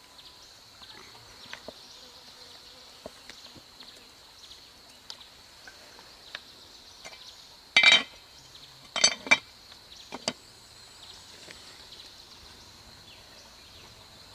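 Steady high-pitched drone of insects, with scattered light ticks and a few sharp knocks or clinks, loudest about eight and nine seconds in.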